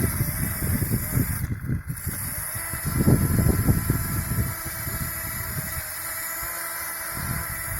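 Small electric toy motor running with a steady whine, over louder uneven low rumbling and rustling noise.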